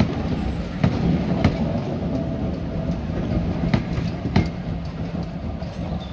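Railway passenger coaches rolling slowly past, a steady rumble with two pairs of sharp clacks, about a second in and again near four seconds, as bogie wheels cross a rail joint.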